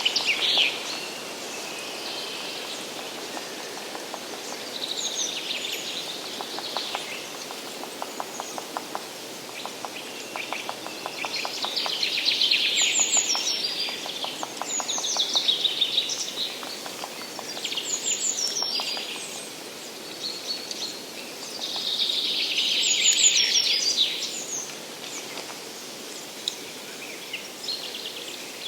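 Several songbirds singing in a forest, loud phrases of quick notes coming every few seconds over a soft steady hiss. Between about 6 and 12 seconds in, a fast, even series of low ticks runs underneath.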